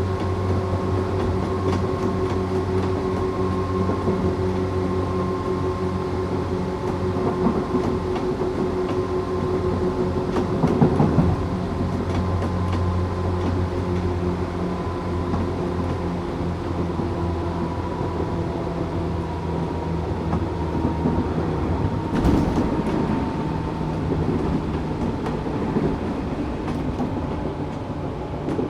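Tokyu 8500 series electric train running at speed with Toyo Denki traction motors, heard from on board: a steady hum and whine with wheel rumble, the whine sinking slightly in pitch. Clatter over rail joints comes about eleven seconds in and again about twenty-two seconds in.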